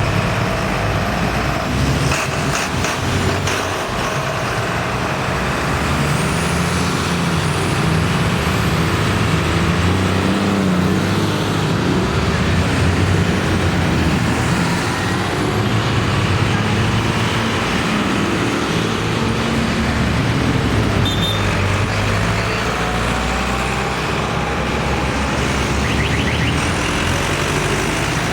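Tractor engines running steadily as tractors drive past one after another.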